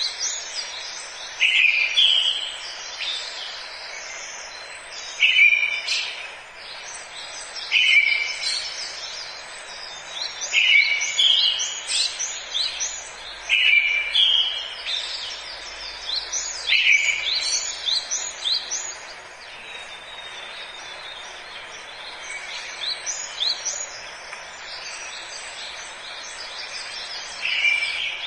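Forest birdsong: birds singing short, quick song phrases that recur every few seconds, each opening with a slurred lower note and running into rapid high notes, over a steady background hiss.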